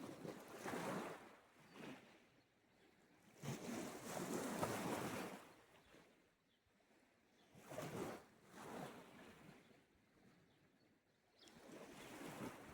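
Small sea waves breaking and washing on the shore, one wash every few seconds, the longest about four seconds in, each swelling and fading away.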